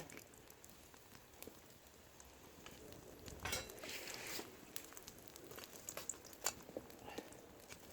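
Egg and green onion batter sizzling faintly in an oiled frying pan over strong charcoal heat, with scattered faint clicks and a couple of brief louder swells.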